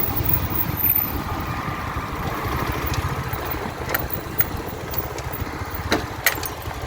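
Motorcycle engine running steadily as the bike is ridden, a continuous low drone, with a few short clicks in the second half.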